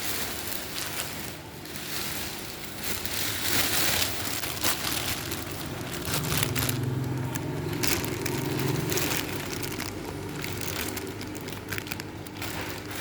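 Crinkling, crackling handling noise throughout, with a low hum from about six to nine seconds in.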